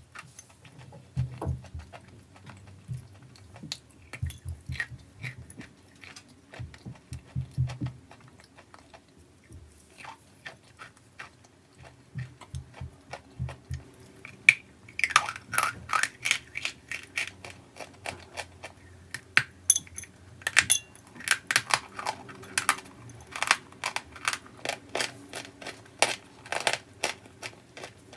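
Close-up biting and chewing of hard, dry edible chalky earth. Dull, muffled chewing in the first half gives way, about halfway through, to louder, crisp crunches in quick succession.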